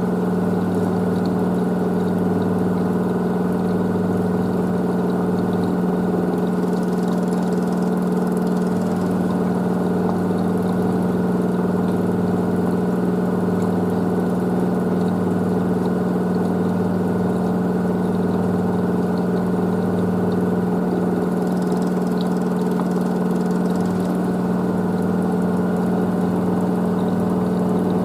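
LG DirectDrive washer dryer spinning its drum on a 1400 rpm spin: a steady motor hum with a constant mid-pitched tone, and a lower hum that pulses on and off every second or two.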